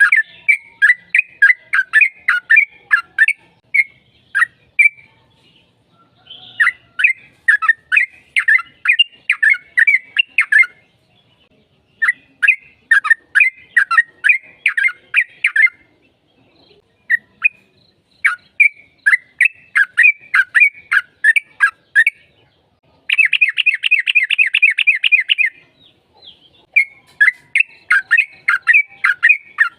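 Yellow-vented bulbul (trucukan) singing its long rapid chattering song: runs of quick bubbly notes, about four a second, in phrases of a few seconds with short pauses between. About two-thirds of the way through comes one faster, tighter trill.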